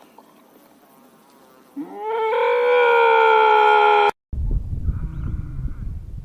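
One long animal call that rises in pitch at its start, then holds steady for about two seconds and cuts off abruptly. After the cut comes a low rumbling noise with faint higher sounds in it.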